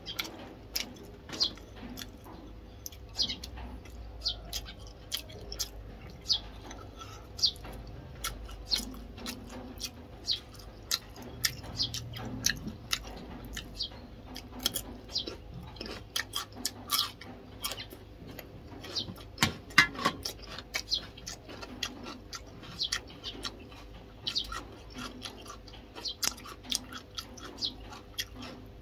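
A person eating close to the microphone: chewing and crunching raw cucumber, with frequent sharp, irregular wet mouth clicks, several a second.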